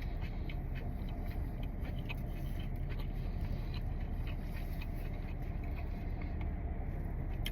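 Steady low rumble of an idling car heard from inside the cabin, with faint scattered clicks and rustles over it.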